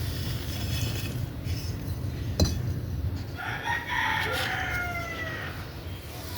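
A rooster crowing once, about three seconds in: one long call that falls in pitch at the end. A single sharp click comes just before it.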